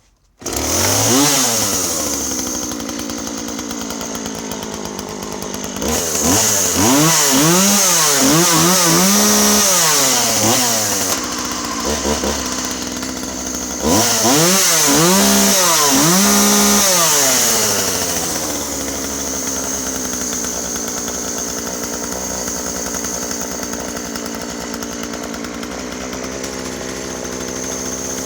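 Husqvarna 136 two-stroke chainsaw engine starting suddenly, idling, then revved up and down repeatedly in two stretches before settling back to a steady idle. It is running again after a new spark plug replaced a blackened one with a worn-away electrode.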